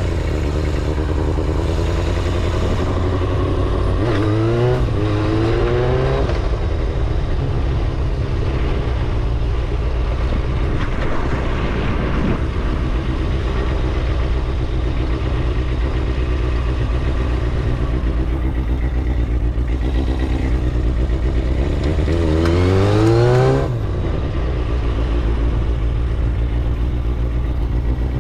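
Kawasaki ZXR250 inline-four engine running under way, with a steady drone. Its pitch climbs about four seconds in, and again from about twenty-two seconds, when it rises to a higher rev before dropping off suddenly as the throttle closes.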